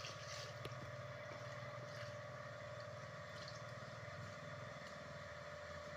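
A steady low mechanical hum with a fast, even pulse and a constant tone over it, broken only by a few faint clicks.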